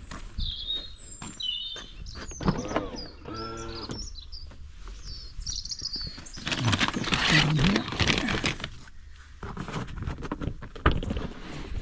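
Birds chirping, with sharp clicks and a longer rustling stretch about two-thirds of the way through as the car's rear seat backs are unlatched and folded down.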